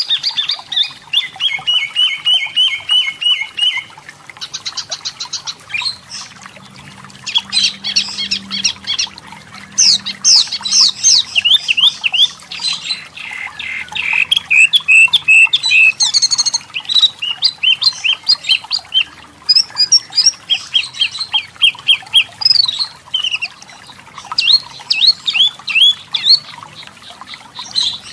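Wambi mini (tepus lurik, a striped tit-babbler) singing: phrase after phrase of rapid, quickly repeated chirping notes and short trills, with little pause between phrases.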